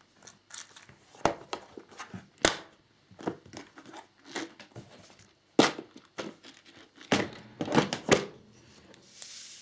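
Plastic parts bags crinkling and rustling as hands rummage through them for small screws, with irregular sharp clicks and knocks of items being handled.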